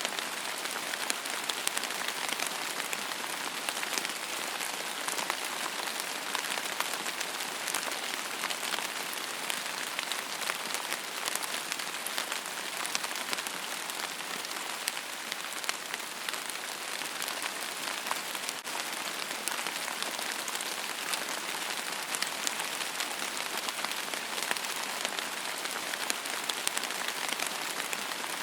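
Steady rain falling on a surface, a dense even hiss with many fine drop ticks and no thunder.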